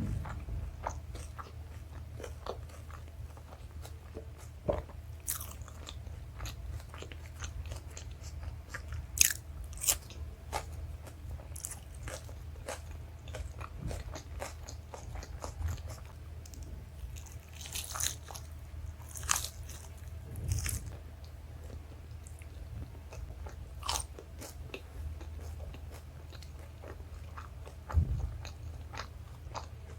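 Close-miked chewing and wet mouth sounds of someone eating chole bhature and rice: irregular clicks and smacks, with a few louder knocks, over a steady low hum.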